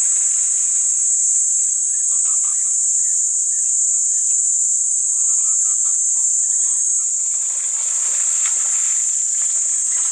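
A steady, high-pitched insect chorus drones without a break, with faint scattered sounds beneath it.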